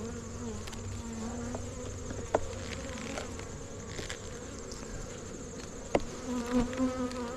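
Honey bees buzzing around an open hive: a steady, wavering hum from a colony that the beekeeper finds testy this morning. Two sharp clicks break in, about two seconds in and again near six seconds.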